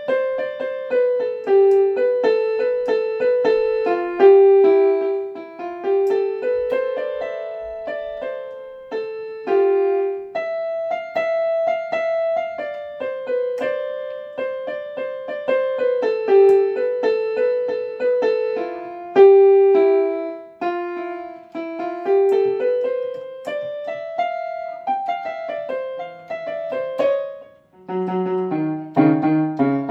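Piano-type keyboard playing a simple melody one note at a time in the middle register; near the end, lower notes come in beneath it.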